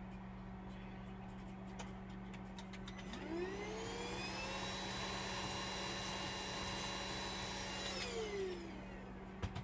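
A small electric motor spins up about three seconds in with a rising whine, runs at a steady pitch for about five seconds, then winds down. A few light clicks come before it, and a sharp knock comes near the end.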